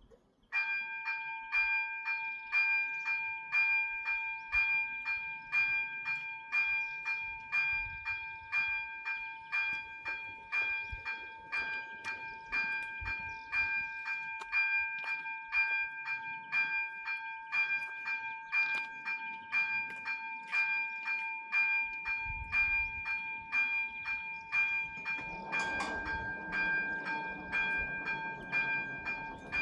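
Level crossing's ZV-03 electronic warning bells start abruptly about half a second in and ring on in a steady, rapid striking rhythm, signalling a train on its way. Near the end, the rumble of the approaching train comes in under the bells.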